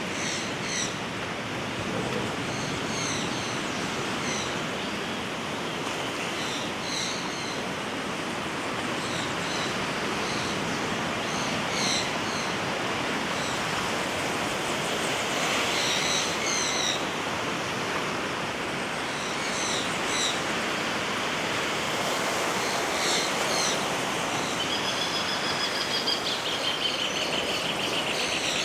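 Steady wash of ocean surf with small birds chirping in short bursts every few seconds above it. A high, steady trill comes in near the end.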